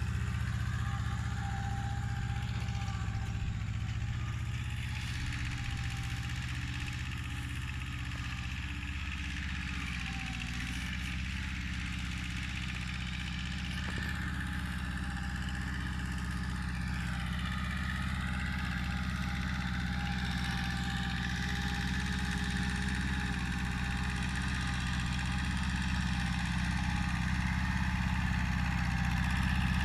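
Kubota mini tractor's diesel engine running steadily, growing gradually louder toward the end.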